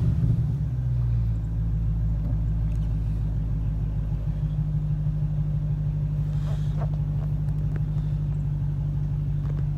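The 2010 Dodge Challenger R/T's 5.7-litre Hemi V8 idles just after a start, a steady, evenly pulsing low rumble heard from inside the cabin. It runs slightly louder in the first second or so, then settles.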